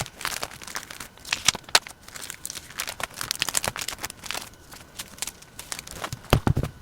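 Paper and sticker sheets being handled for diary decorating: irregular rustling, crinkling and peeling. About six and a half seconds in there is a dull knock.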